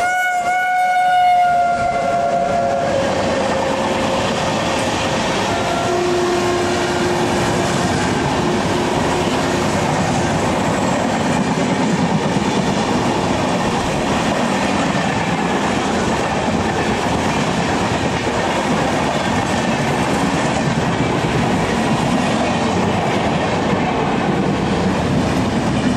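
Horn of a WAP-7 electric locomotive passing on the parallel track, a chord that sags slightly in pitch and fades out about three seconds in. Then the steady rumble and wheel clatter of two trains running side by side, heard from the open door of a moving coach, with a fainter single tone for a few seconds about six seconds in.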